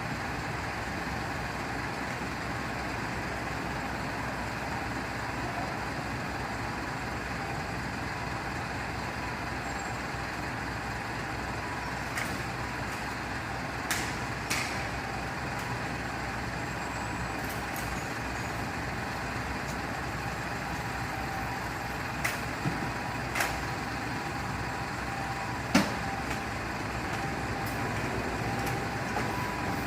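Rescue fire truck's engine idling steadily, with about six sharp clicks and knocks scattered through, the loudest near the end.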